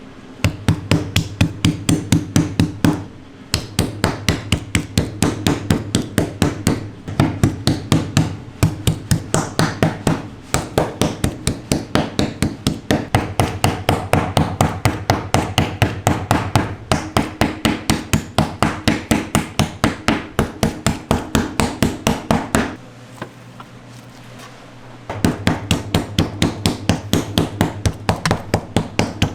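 Rapid, even strikes of a tool on meat on a cutting board, about five a second, in long runs that break off briefly near the start and for about two seconds near the end.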